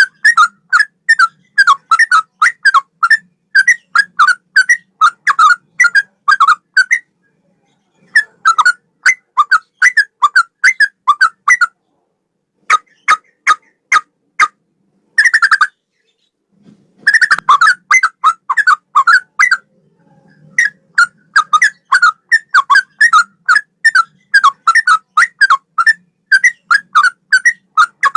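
Sooty-headed bulbul (trucukan) singing: a long run of short, loud whistled notes, about three or four a second, broken by a few brief pauses.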